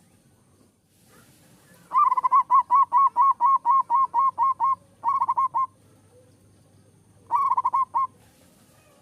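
Zebra dove (perkutut) in full song: starting about two seconds in, a fast run of about a dozen repeated cooing notes at roughly four a second, then two short bursts of about four notes each.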